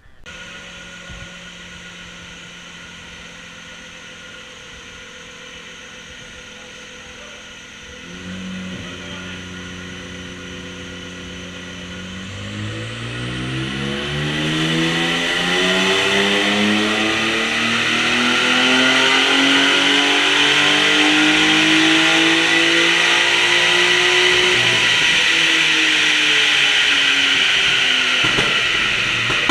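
BMW drift car's engine under load on a rolling road: running steadily at first, picking up about eight seconds in, then pulling up through the revs in one long rising sweep before dropping away near the end, as in a dyno power run.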